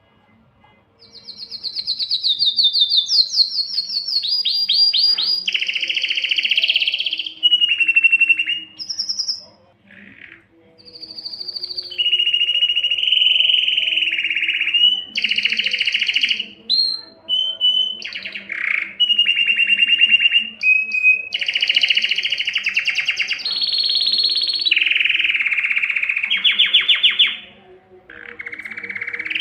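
Male canary singing a long, continuous song of fast trills and rolled runs of rapidly repeated notes, changing from one phrase to the next, with brief pauses between some phrases.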